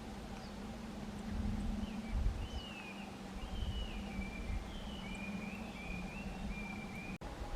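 A wild songbird giving a series of short whistled notes, some sliding down in pitch, over a low rumble of wind or camera handling; the sound cuts off abruptly near the end.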